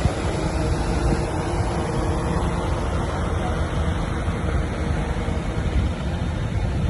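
Diesel engine of heavy earthmoving machinery running steadily, a continuous low rumble.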